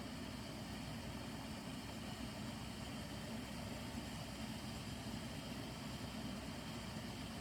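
A small engine running steadily, a low even hum that does not change.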